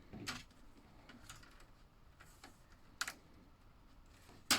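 Plastic slot car track pieces being handled and pushed together: scattered light plastic clicks and ticks, with three sharper clicks, one just after the start, one about three seconds in and one near the end.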